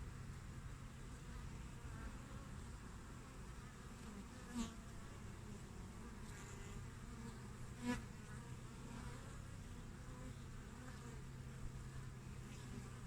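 Honeybees (Apis mellifera) buzzing at a hive entrance: a steady low hum of many bees, with single bees buzzing briefly louder twice, about four and a half and eight seconds in.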